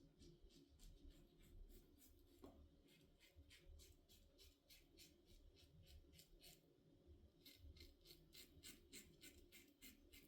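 Faint, short scrapes, a few a second in runs: a Blackland Vector razor with a Feather Pro Guard blade cutting lathered stubble on the second pass.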